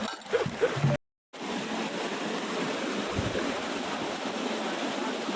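Steady rushing of water from a small waterfall, after a brief dead-silent gap at an edit about a second in.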